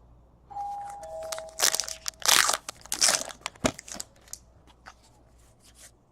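A trading-card pack wrapper is torn open and crumpled in a run of loud crinkles and rips. Light ticks of cards being handled follow after about 4 seconds.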